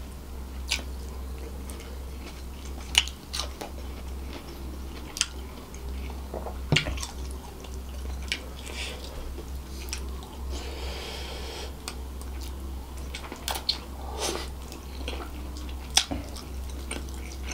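Close-miked chewing and biting of saucy devil chicken, with scattered wet clicks and smacks from the mouth. A steady low hum runs underneath.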